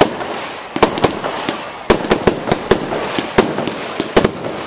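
Fireworks display with a dozen or more sharp bangs going off in quick, irregular succession over a continuous crackle.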